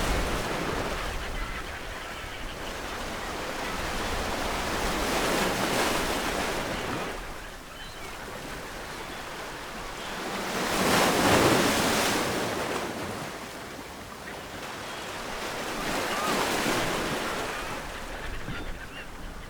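Ocean waves breaking on a shore: surges of surf rise and fall about every five to six seconds, the loudest a little past halfway.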